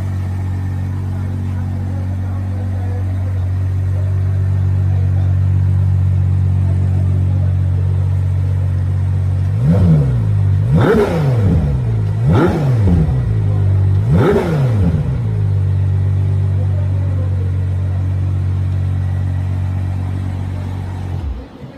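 Ferrari 12Cilindri's naturally aspirated V12 idling, then revved three times in quick succession, each rev rising and falling in pitch, before settling back to idle. The sound cuts off suddenly near the end.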